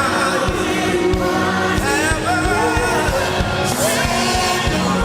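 Gospel worship music: singers over a band with a steady beat and cymbal crashes.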